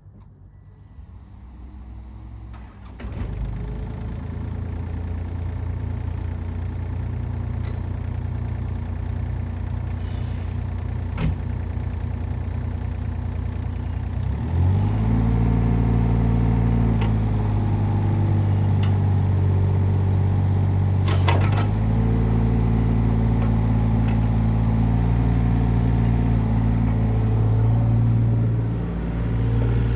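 Case CX37C mini excavator's diesel engine running, getting louder about three seconds in and stepping up to a higher, louder speed about halfway through, with a few sharp clicks from the machine.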